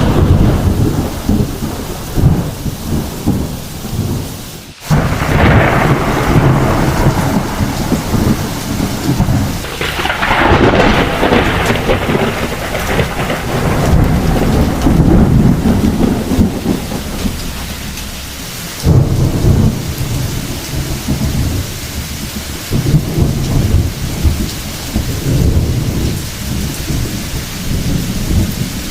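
Heavy rain falling steadily under repeated rolling thunder. Loud low rumbles start suddenly about five seconds in and again near the end, with a long roll in the middle.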